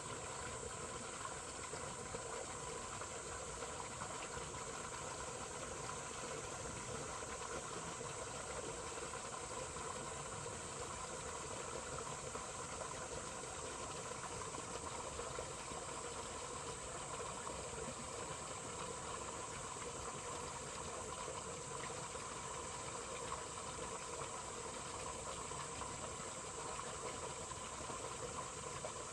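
Steady rushing hiss of flowing water in a stream or channel, even throughout, with a constant thin high-pitched insect drone over it.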